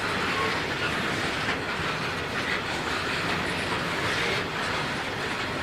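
Loaded coal hopper wagons rolling past, a steady noise of steel wheels on rail with some clatter.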